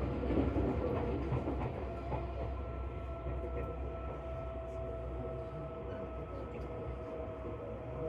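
Seibu New 2000 series electric train heard from inside the car, with a steady low rumble and a steady whining tone. Wheels clatter over the rails in the first couple of seconds, then the sound evens out.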